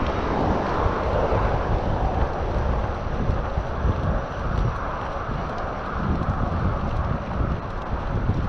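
Wind rushing over a GoPro Hero 7's microphone while cycling: a steady rushing noise with a gusty low rumble underneath.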